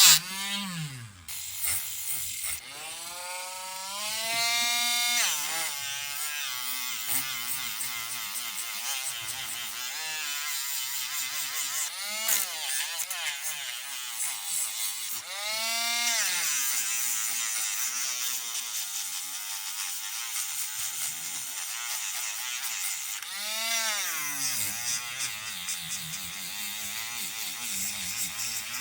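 A small electric power tool's motor whining as it speeds up and slows down again and again, its pitch rising and falling several times.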